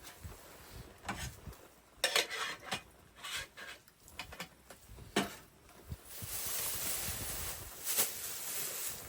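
Metal utensils clinking and scraping against a pot, a few separate strokes, then a steady hiss from about six seconds in.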